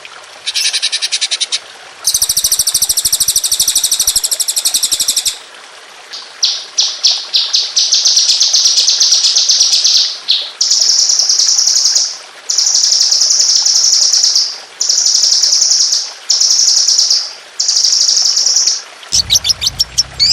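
A songbird sings rapid, very high-pitched trills in bursts: a fast run of repeated notes that speeds up into a continuous rattle, then five held buzzy trills about a second long each with short gaps between, the rapid 'tembakan' song used to train caged songbirds.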